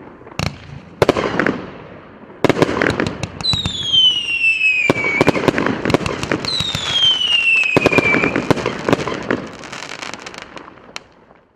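A 60-shot, 1-inch consumer fireworks cake firing: a few sharp bangs, then dense crackling with two long falling whistles, the second one about three seconds after the first. The shots thin out, with a last pop near the end as the cake burns out.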